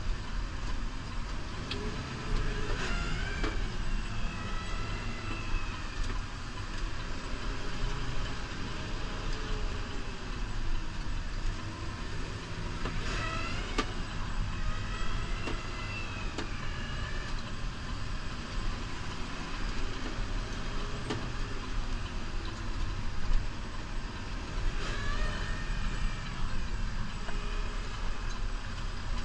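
New Holland Powerstar 75 tractor running steadily under load while plowing snow. A higher whine bends up and down about three seconds in, again about thirteen seconds in, and near the end.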